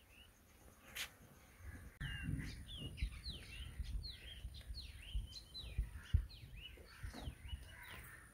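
Small birds chirping, many short quick calls one after another, starting about two seconds in, with low rumbling and thumps underneath.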